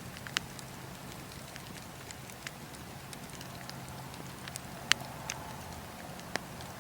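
Bonfire crackling: irregular sharp pops and snaps over a faint steady hiss, the loudest pop about five seconds in.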